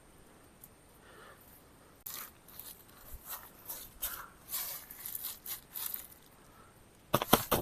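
Rustling and scraping as a camp tarp and its cord are handled and pulled tight, starting about two seconds in, with a quick cluster of sharp knocks near the end.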